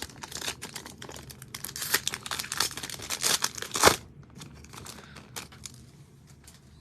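Wrapper of a football trading-card pack being torn open and crinkled: dense crackling for about four seconds, then fainter rustling.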